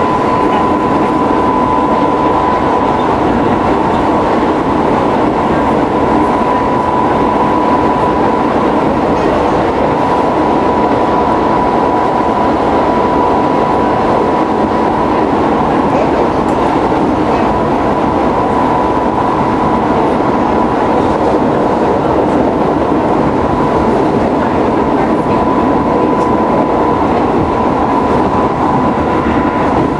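Keisei 3700 series electric train running at speed, heard from inside the car: a steady rumble of wheels on rail with a thin, steady high tone over it.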